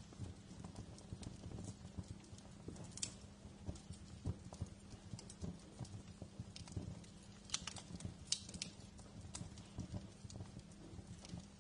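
Wood fire crackling in a fireplace: a dense, irregular run of small low crackles with sharper pops among them, the loudest pops coming about eight seconds in.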